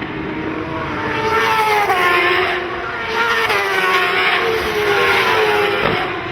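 Racing motorcycles passing one after another at speed, loud, each engine note swelling and then sliding down in pitch as it goes by, with steps in pitch from gear changes.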